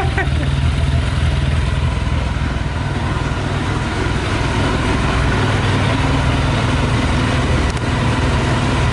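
Yamaha YZF 600R's inline-four engine idling steadily while running on 40% whisky in its tank, which the owner thinks may still hold a bit of petrol.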